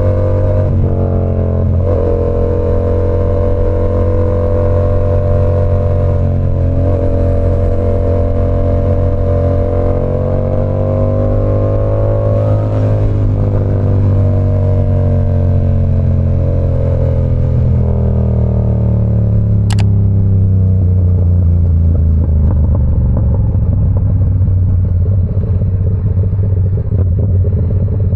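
Yamaha R7's 689 cc parallel-twin engine through an SC Project CR-T exhaust while riding, held at fairly steady revs that rise a little then slowly drop. A brief sharp high sound comes about twenty seconds in, after which the exhaust note turns rougher.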